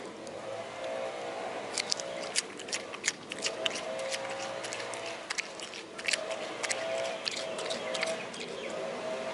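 Small birds chirping: many short, high chirps in irregular succession over outdoor ambience, with a faint steady hum that fades in and out in the background.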